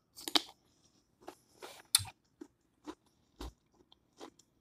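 Close-up chewing and lip-smacking of a mouthful of sauce-dipped seafood-boil food: a string of irregular wet clicks and smacks, the loudest about a third of a second and two seconds in.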